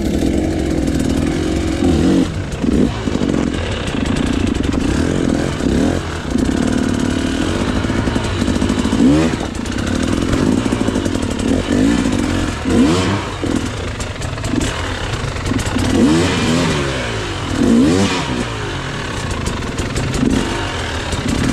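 KTM EXC 300 two-stroke dirt bike engine under way off-road, its revs rising and falling again and again as the throttle is worked, with an occasional knock or clatter from the bike over rough ground.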